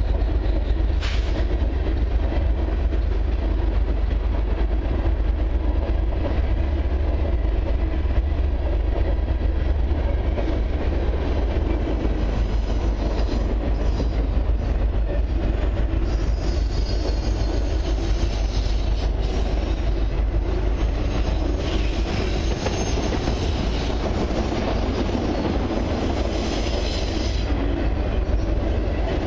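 Long freight train of tank cars and autorack cars rolling past at close range: a steady rumble of steel wheels on rail, broken by occasional clicks at the rail joints. A faint high wheel squeal comes and goes in the second half.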